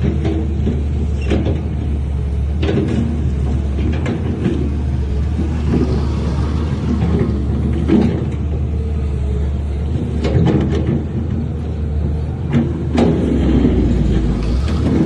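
Heavy diesel earthmoving machinery running steadily, with scattered sharp metallic knocks and clanks.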